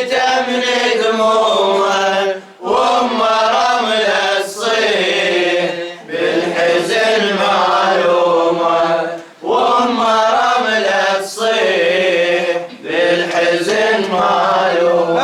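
Unaccompanied chanting of a Muharram elegy (latmiya) by a young male reciter, sung in drawn-out phrases of about three seconds with brief breaks between them.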